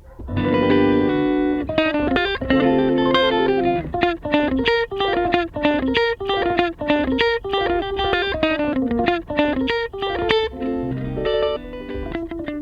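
Instrumental music led by a plucked electric guitar sound: a chord rings out at the start, then a quick run of short single notes that repeatedly falls in pitch.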